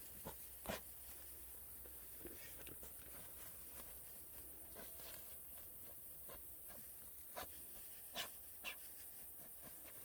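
Faint sounds of a truffle-hunting dog searching the forest floor: the dog panting, with scattered crackles and snaps of leaf litter and twigs. A few louder snaps come about a second in and again near the end.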